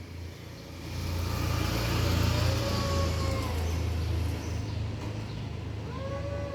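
A vehicle's low rumble going by, with a cat's long, drawn-out yowl rising and falling about two seconds in and another starting near the end: the wailing of stray cats facing off before a fight.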